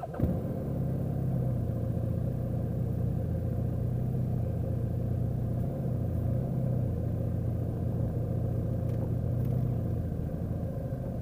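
Motorcycle engine starting up and idling steadily.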